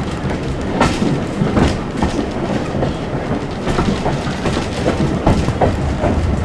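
Heritage railway carriage running along the track: a steady low rumble with irregular clicks and knocks from the wheels on the rails.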